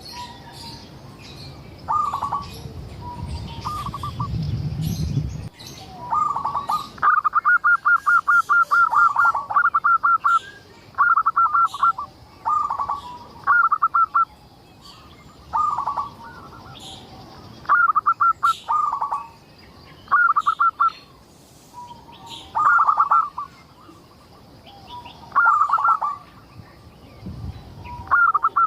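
Zebra dove (perkutut) cooing: short phrases of quick stuttering notes repeated every second or two, with a longer run of rapid notes a few seconds in. A low rumble lies under the first five seconds.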